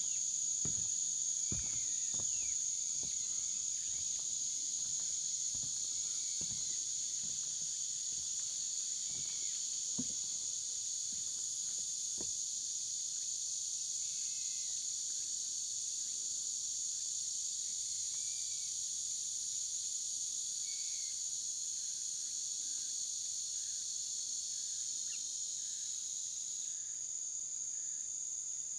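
Steady high-pitched insect chorus, with footsteps on a trail during roughly the first twelve seconds and a few faint bird chirps.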